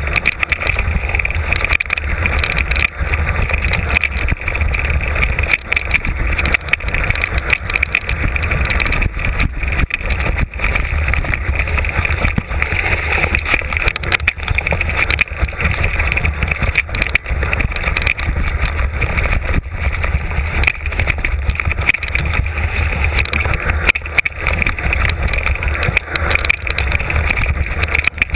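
Wind buffeting the microphone of a bike-mounted camera, with the steady rattle and knocking of a mountain bike bouncing over a rough trail on a fast descent.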